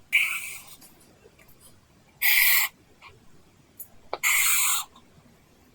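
Apple Pencil strokes scratching across a paper-texture screen protector on an iPad. There are three short strokes about two seconds apart, with a light tap of the pencil tip just before the third.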